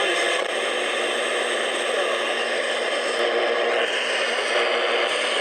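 Radio static: a steady hiss with faint steady tones running through it, its upper part growing a little stronger about four seconds in.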